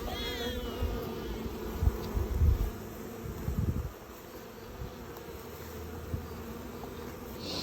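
Swarm of honeybees buzzing in a steady hum as the stragglers mill around the fence post. There is some low rumbling in the first four seconds.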